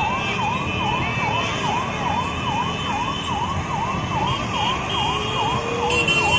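Emergency vehicle siren sounding in fast, repeated rising-and-falling sweeps, about three a second, over a steady low rumble of traffic.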